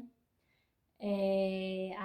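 Near silence for about a second, then a woman's voice holding one long, steady vowel, a drawn-out hesitation sound leading into speech.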